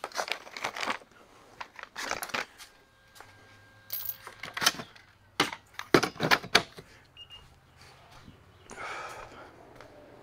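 Hand tools and metal hardware clinking and rattling as they are handled: a string of sharp, irregular clicks and knocks, the loudest around six seconds in, then a short scrape near the end.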